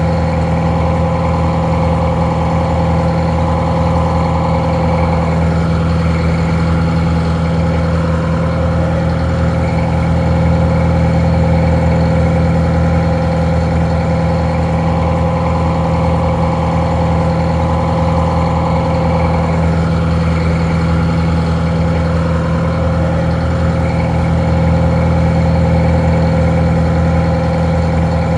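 Detroit Diesel 4-71 two-stroke diesel engine idling steadily, heard a little muffled. It is the winch engine on a barge.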